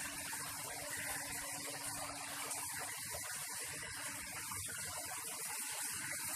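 Water fountain running, its jets spraying and splashing in a steady hiss, with a faint steady hum underneath.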